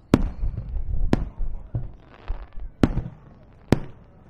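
Aerial firework shells bursting: four sharp bangs at uneven spacing, each trailing off into a low rumbling echo.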